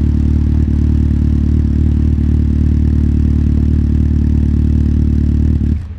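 Motorcycle engine idling steadily, then stopping suddenly near the end.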